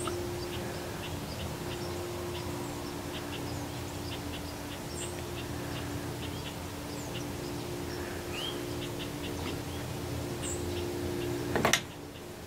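Outdoor birds chirping, with many short scattered chip notes and a few upward-swooping calls, over a steady low hum. A single sharp knock or click near the end.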